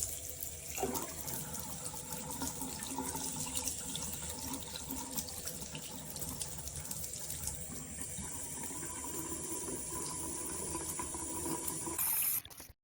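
Water running from a waterfall-spout bathroom mixer tap into a sink, a steady rush and splash. It gets a little louder near the end, then cuts off suddenly.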